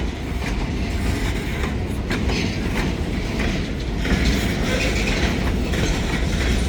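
Escanaba & Lake Superior freight train rolling past: a steady, heavy rumble of wheels on rail with a few faint clicks, getting a little louder about four seconds in.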